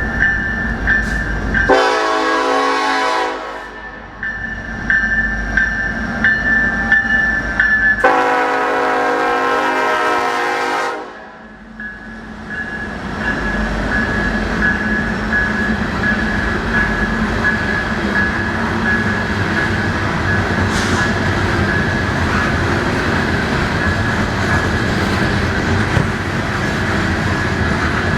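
Norfolk Southern freight locomotive sounding its horn at a grade crossing: two blasts, the second about three seconds long, over the steady ringing of the crossing bell. The train then rolls through with a steady rumble and wheels clacking over the rail joints, the bell still ringing.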